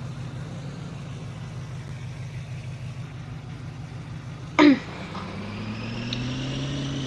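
Truck engine running steadily, then slowly rising in pitch as it picks up revs over the last couple of seconds. A short, loud sound with a falling pitch comes about four and a half seconds in.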